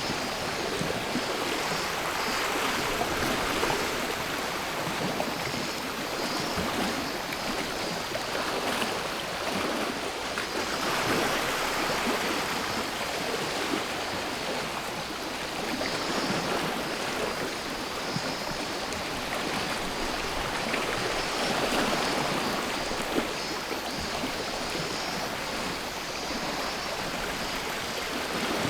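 Sea waves washing on the shore, a continuous rush of water that swells and eases every several seconds.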